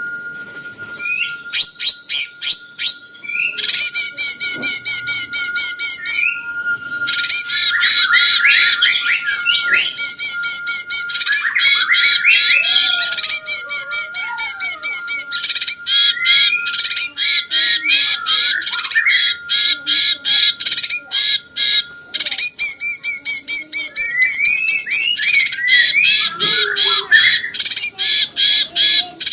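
Cucak cungkok bulbul singing a long, loud, varied song: fast chattering trills, quickly repeated sharp notes and gliding whistled phrases, with almost no pauses. A faint steady high tone runs underneath.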